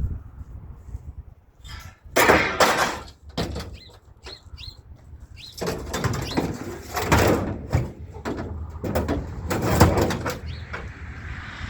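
Scrap metal clattering and scraping as it is handled and loaded onto a truck, in three loud bouts with quieter gaps between.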